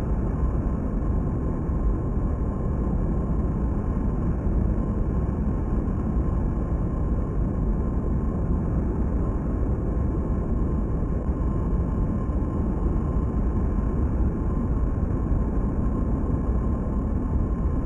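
Jet engines of a very large aircraft running steadily: an even, unbroken noise with a thin constant whine in it.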